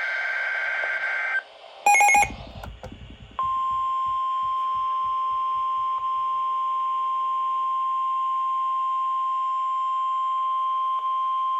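NOAA Weather Radio emergency alert: the tail of the SAME digital header's buzzy data tones ends about a second in, a short loud burst follows, and then the 1050 Hz Warning Alarm Tone sounds as one steady high tone for about nine seconds. The tone signals that a warning is about to be read.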